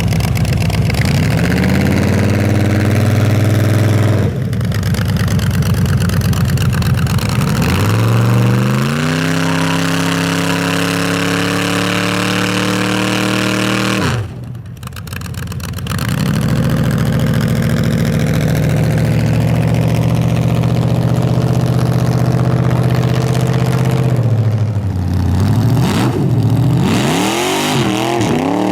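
Race truck's engine held at high revs during a burnout, with the hiss of spinning tires. The revs climb and hold three times, dropping sharply about four, fourteen and twenty-four seconds in, then waver at low revs near the end.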